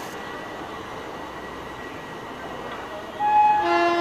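Passenger coaches of a departing express rolling past steadily. About three seconds in, a locomotive air horn sounds loudly: a short higher note, then a lower, fuller blast.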